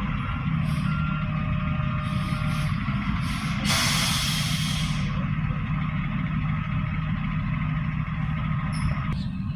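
Garbage truck diesel engine running steadily, with reversing beeps in the first couple of seconds. A loud air-brake hiss lasts about a second and a half, a little under four seconds in, with a few shorter hisses before it.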